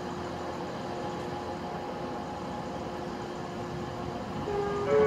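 LNER Class 91 electric express train approaching, a steady rumble with a faint hum. About four and a half seconds in, its horn sounds loudly, a lower note followed by a higher one.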